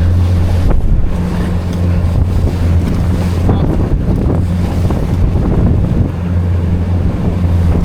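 A motorboat's engine running under throttle through rough waves, a steady low drone that swells and eases, with wind buffeting the microphone and water rushing past.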